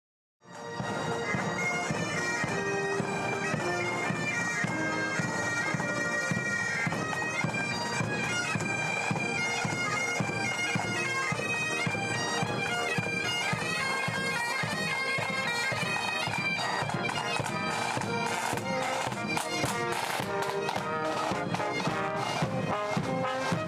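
Bagpipes playing a melody over their steady drones, starting suddenly; drums join in with sharp beats over the last several seconds.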